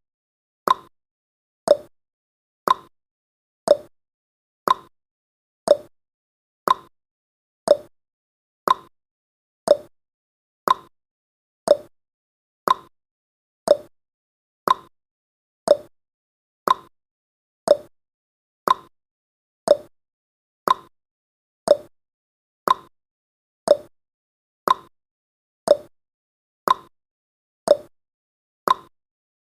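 Clock-ticking sound effect of a countdown timer: one sharp tick each second, evenly spaced and steady.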